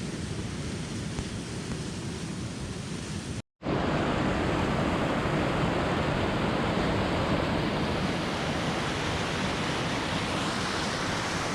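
Steady rush of falling water from a waterfall, broken by a short gap about three and a half seconds in, after which it is louder.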